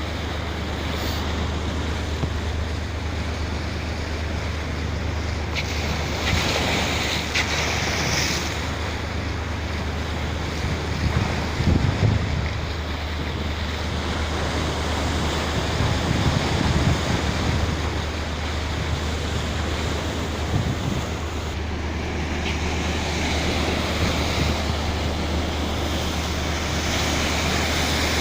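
Wind buffeting the microphone over the wash of sea waves, with a steady low hum underneath and a few louder gusts or surges.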